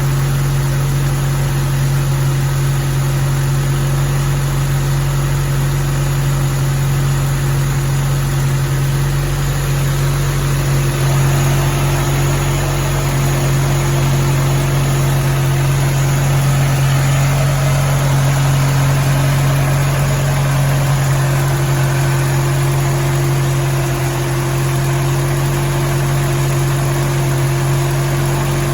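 1981 AMC Eagle SX/4's engine idling steadily, with a constant low hum and no revving.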